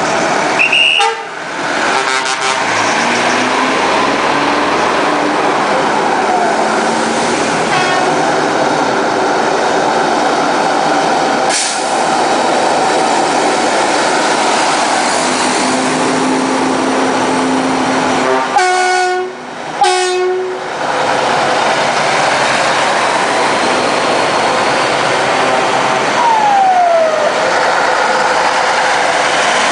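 Classic trucks driving past in a parade, engines running steadily, with truck horns tooting: once near the start and two short blasts about two-thirds of the way through.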